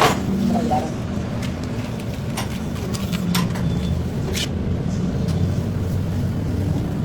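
A steady low motor hum with a few light clicks and knocks scattered over it.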